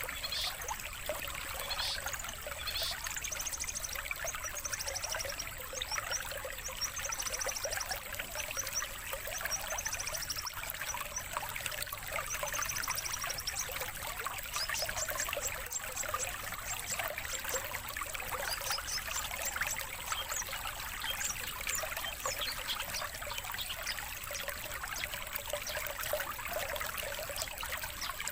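Steady trickling water with a songbird's high, rapid trills and chirps over it, coming in short bursts of a second or two. It is a recorded training track of master songs for competition songbirds.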